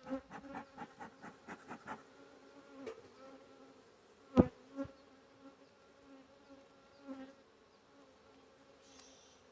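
Honeybees buzzing close around an open hive: agitated, defensive bees flying at the beekeeper's face. There is a quick run of ticks in the first two seconds and a sharp tap about four and a half seconds in.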